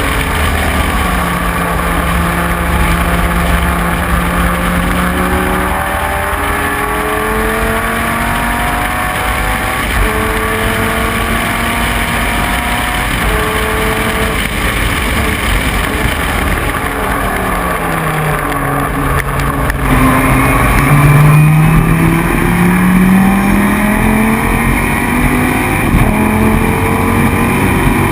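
Dodge Viper GT3 race car's V10 engine under hard acceleration, its pitch climbing and breaking through a series of upshifts. A little past the middle the revs fall away as the car slows, then it pulls up through the gears again, slightly louder.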